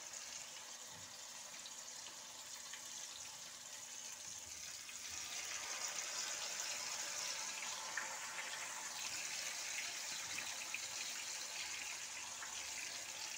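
Marinated chicken pieces deep-frying in hot coconut oil: a steady sizzle with fine crackling, growing louder about five seconds in.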